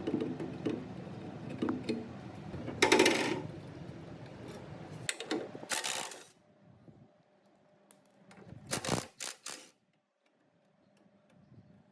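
Small metal parts clinking and clattering as they are handled and set down, with a louder clatter about three seconds in. After that it goes quieter, with a few short sharp knocks about nine seconds in.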